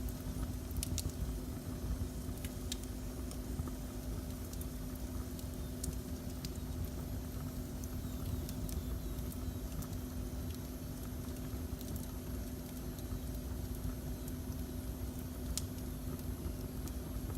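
Wood fire burning in a fireplace: a low steady rumble under a faint steady hum, with scattered sharp crackles and pops of burning wood.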